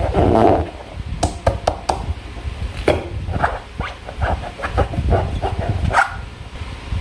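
Slime being squeezed and worked by hand: irregular wet squelches with sharp clicking pops.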